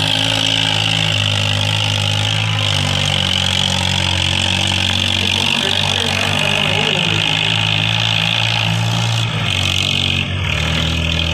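Massey Ferguson tractor's diesel engine running steadily, with a brief change in its note near the end.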